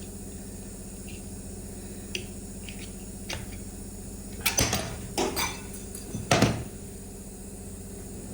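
Metal steering-column parts and tools clinking and knocking together during a workbench strip-down: a few light clicks, then three louder clatters about halfway through, over a steady low hum.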